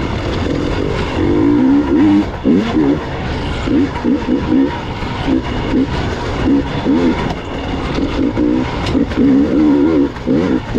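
Gas Gas EX 300 two-stroke enduro motorcycle engine being ridden hard over rough trail, its revs rising and falling over and over as the throttle is blipped and rolled off.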